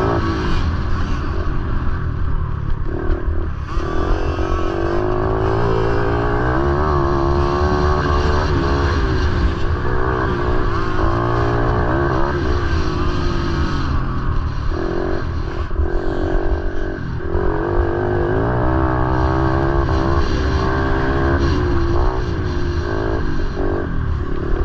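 Motorcycle engines running, their pitch rising and falling again and again as the throttle is opened and closed, over a continuous low rumble.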